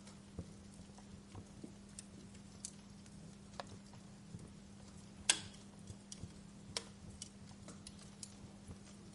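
Fireplace fire crackling with irregular small pops, a sharper pop about five seconds in and another shortly after, over a faint steady hum.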